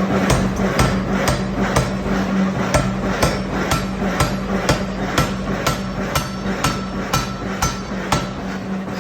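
Steady hammer blows on metal in ring forging, about two a second, each with a brief metallic ring, over a steady low machine hum.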